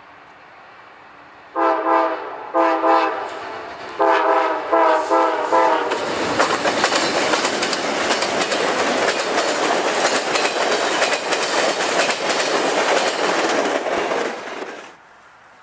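Amtrak diesel locomotive's multi-tone horn sounding a series of blasts, two long and then shorter ones, starting a couple of seconds in. Then the train passes close by, with loud engine rumble and wheels clattering over the rail joints. The sound cuts off suddenly near the end.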